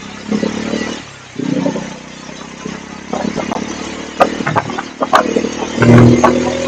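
Bajaj Pulsar N250 motorcycle's single-cylinder engine and exhaust revving while being ridden, in repeated surges that are loudest near the end. Sharp clicks are scattered through the second half.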